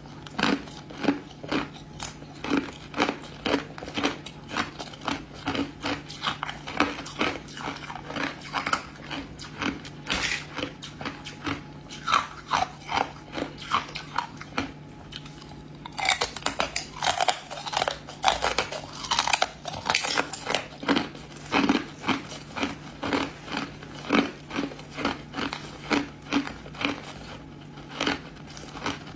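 Ice being bitten and chewed close to the microphone: a steady run of sharp crunches, about two or three a second, with a louder spell of crunching about two-thirds of the way through.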